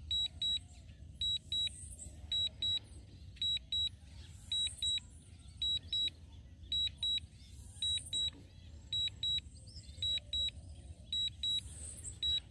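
DJI Fly app low-battery warning beeping on the drone's controller: short clusters of quick high beeps repeating about once a second. The drone's battery is low and it is being brought down for a forced landing.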